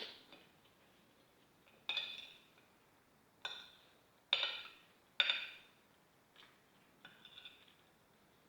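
Cutlery clinking against a plate while eating: about five sharp, briefly ringing clinks over the first five seconds, then a few softer ones.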